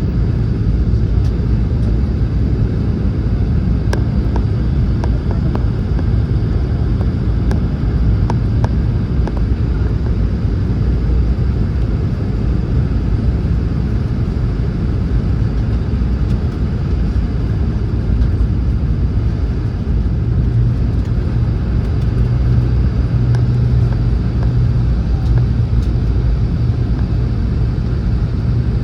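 Steady low rumble inside the cabin of a Boeing 717 airliner on approach to land: airflow and engine noise heard from a window seat, with a few faint clicks early on.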